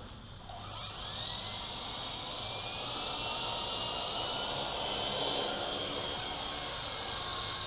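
Electric RC helicopter (WLToys V915) spooling up: a high motor-and-rotor whine that rises in pitch over the first few seconds, then holds steady as the rotors reach flying speed.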